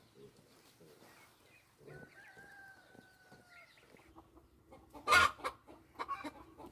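Chickens calling: a drawn-out pitched call about two seconds in, held for over a second and sagging slightly at the end, then a sudden loud burst about five seconds in, followed by short, scattered clucks and clicks.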